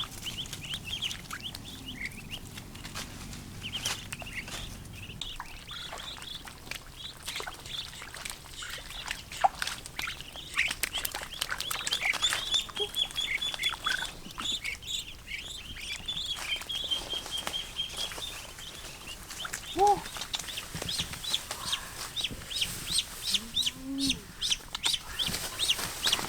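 Ducks calling a few times, short calls about two-thirds of the way in and near the end, over high birdsong chirps and many small clicks.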